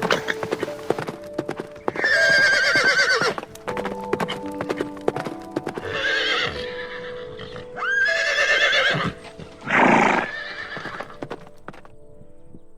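Horse whinnying twice, a wavering call that falls in pitch, about two seconds in and again around eight seconds in, with hooves clip-clopping throughout. A short, loud rush of breath-like noise comes about ten seconds in. Steady background music plays underneath.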